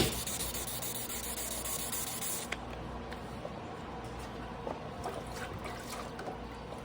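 Water running or spraying, a steady hiss that cuts off suddenly about two and a half seconds in, followed by faint trickling with a few small knocks, as the whetstone and knife are wetted or rinsed during hand sharpening.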